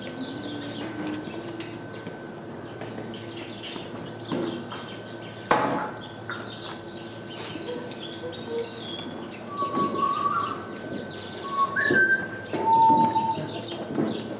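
Small birds chirping and whistling in the courtyard trees, many short calls overlapping throughout, with a sharp click about five and a half seconds in.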